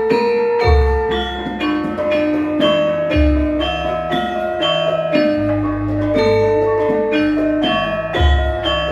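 Javanese gamelan ensemble playing a gending: bronze metallophones struck in a steady running melody, with deep low strokes sounding about four times.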